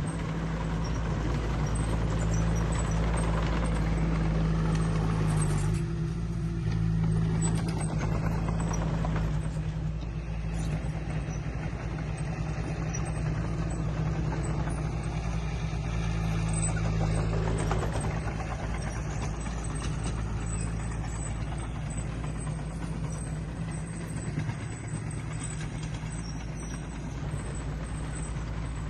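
Heavy diesel engine of earthmoving machinery running steadily, a low even drone with mechanical noise over it.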